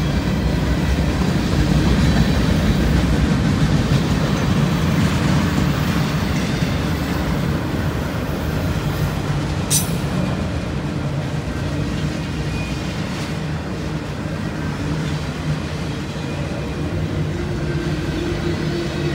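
Freight train of tank cars and autorack cars rolling past: a steady rumble of steel wheels on rail. A single sharp click sounds about halfway through.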